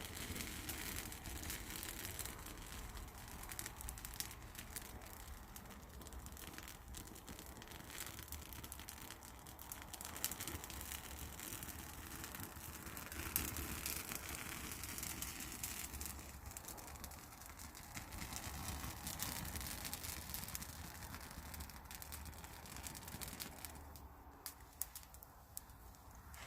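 Wood fire crackling over a steady hiss, with frequent irregular sharp pops.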